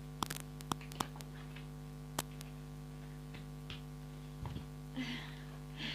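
Steady electrical hum with a few sharp clicks and taps, most of them in the first couple of seconds, and a soft low thump a little after the midpoint.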